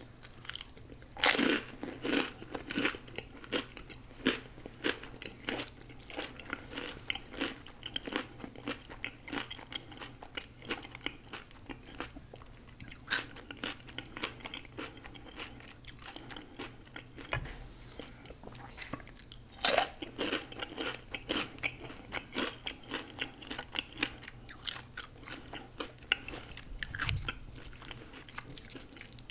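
Close-miked eating: a loud, crunchy bite about a second in and another about twenty seconds in, with steady crunching and chewing in between.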